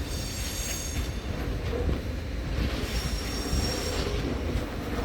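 A train rolling slowly over the tracks with a steady low rumble, its wheels squealing high-pitched near the start and again about three seconds in.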